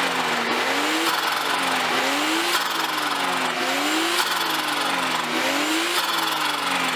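A Nissan RB20DET turbocharged straight-six, fitted with a TD06 20G turbo, revving up and down over and over in a steady wave. A short, sharp sound comes near the top of about four of the swings, over a steady hiss.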